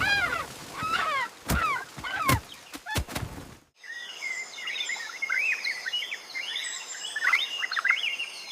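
Harsh, falling parrot squawks mixed with a few sharp thumps, cutting off suddenly about three and a half seconds in to a forest background of many small birds chirping over a steady high insect drone.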